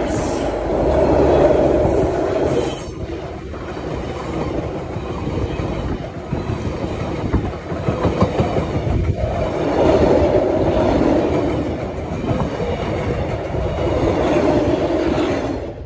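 Passenger coaches passing close by at track level: steel wheels rumbling on the rails with a clickety-clack over the rail joints, growing louder and softer several times as the coaches go by.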